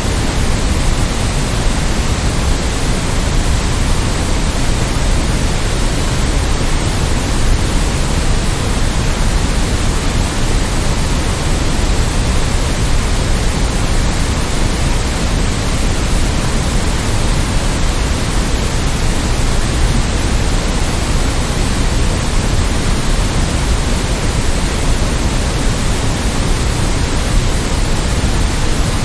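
Steady synthetic noise with no events or changes, a constant hiss weighted toward the low end (pink-noise-like), played as a sleep and study sound.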